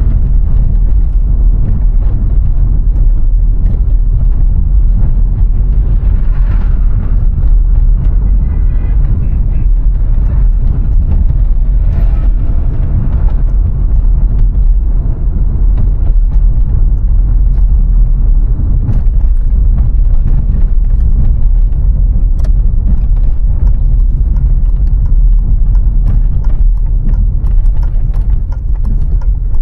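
VW Golf IV 1.6 four-cylinder petrol car driving: a steady low rumble of engine, tyres and wind, with scattered small clicks and knocks throughout and a brief higher tone about eight seconds in.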